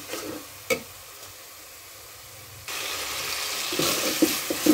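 A metal spoon stirring and scraping fried onions and ginger-garlic paste in oil in a metal pot, the oil sizzling. The spoon clinks once on the pot about a second in, and the sizzling jumps suddenly louder a little past halfway.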